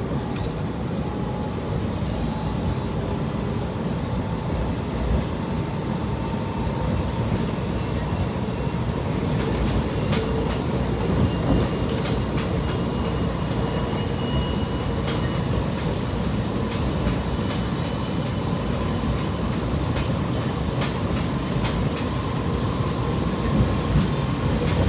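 Commuter train running along the track, heard from inside a passenger car: a steady rumble of wheels on rail with a faint steady whine. Sharp clicks over the rail joints come often from about ten seconds in.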